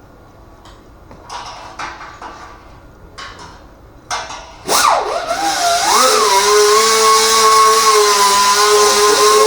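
A few knocks and clatters of handling, then about five seconds in an electric angle grinder spins up with a sharply rising whine. It settles into running steadily at full speed with a high hiss.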